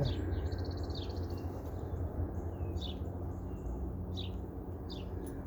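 Wild songbirds calling: several short down-slurred chirps a second or so apart and a brief rapid trill near the start, over a steady low rumble.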